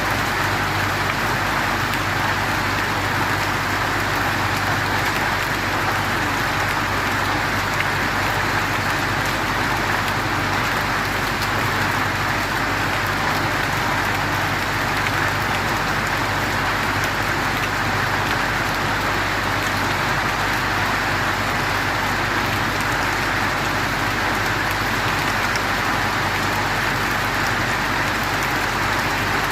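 Heavy rain mixed with hail falling on hard surfaces: a dense, even hiss of drops with faint scattered ticks that holds steady throughout.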